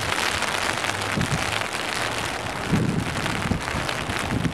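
Heavy rain pouring down, a dense steady patter of drops, with a few short low thumps.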